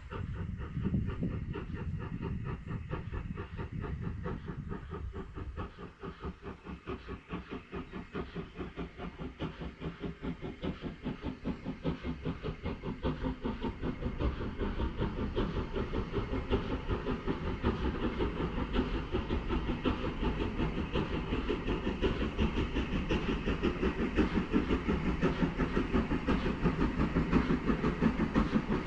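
Steam locomotive working a train, its exhaust beating in an even rhythm over a steady hiss of steam, growing louder toward the end.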